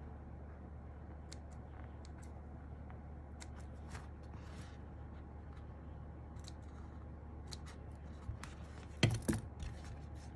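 Hand-cutting a thin foam sheet for a keyboard case: scattered small clicks and rustles over a low steady hum, with a louder clatter of knocks about nine seconds in.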